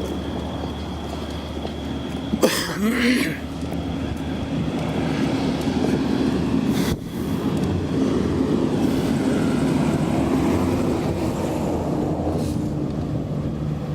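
Steady low rumble of a vehicle engine running, with a brief sharp sound about two and a half seconds in.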